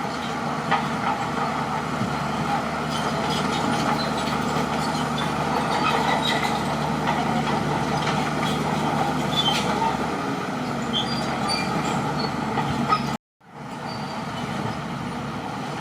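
Crawler bulldozer's diesel engine running steadily, with scattered short metallic clanks over it. Near the end the sound cuts out abruptly for a split second, then comes back.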